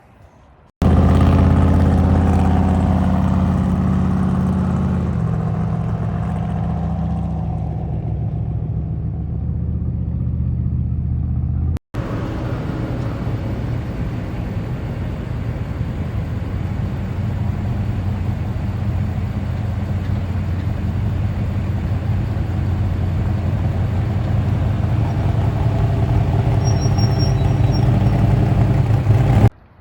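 Truck engine running as the truck drives, in two stretches. In the first, the engine note steps down in pitch about five seconds in. After a sudden break it goes on as a steady drive with a noisy rumble.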